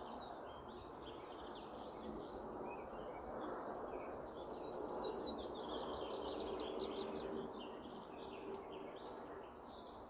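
Small birds chirping and singing, with a quick run of short repeated notes around the middle, over a steady background noise.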